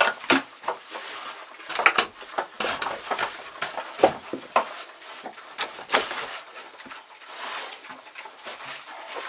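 Animals eating their feed: irregular clicks, knocks and rustling.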